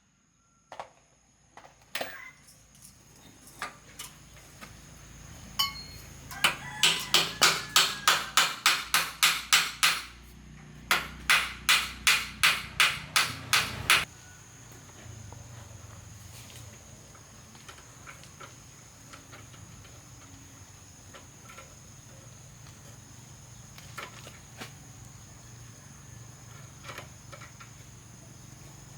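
A hammer striking in two quick runs of about four even blows a second, with a few scattered knocks before and after.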